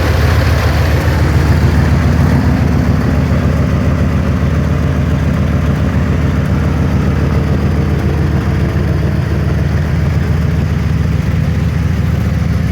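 Ford Thunderbird engine idling steadily and evenly with no misfires, through an exhaust that is due for replacement.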